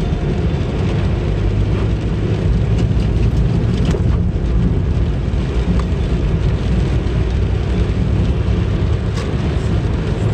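Car cabin noise while driving: steady low engine and road rumble heard from inside the car, with a few faint clicks.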